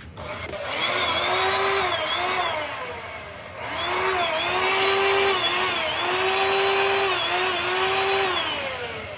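A power tool's motor running in two spells, about three seconds, a brief stop, then about five seconds more, its pitch dipping briefly again and again as it is loaded, over a steady hiss.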